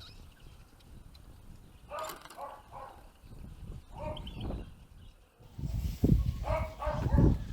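A dog barking repeatedly in short calls, loudest near the end.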